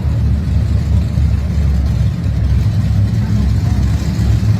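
Loud car engine running with a steady, deep low rumble and no revving.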